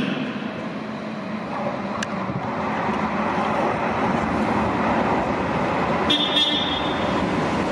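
A train rumbling into the station platform, its running noise building and staying loud, with a short high horn toot about six seconds in.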